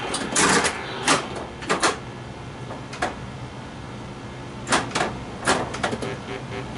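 Bally Flash Gordon pinball machine in play: about seven sharp, irregularly spaced mechanical clacks from the playfield, over a low steady hum.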